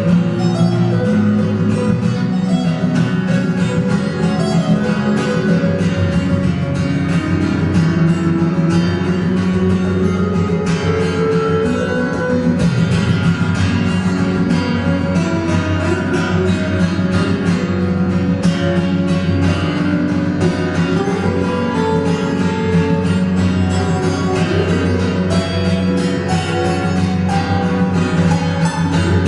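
Acoustic guitar music, plucked and strummed notes with a steady rhythm, playing continuously.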